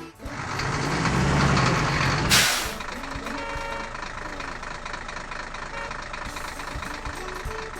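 Heavy truck engine running, then a short loud hiss of released air, typical of an air brake, about two and a half seconds in; afterwards the engine idles more quietly.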